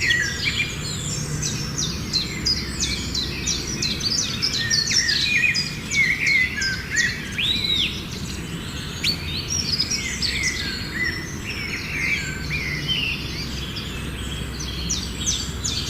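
Many small birds chirping and calling over one another in a dense chorus of short, high chirps and whistles, over a steady low background rumble.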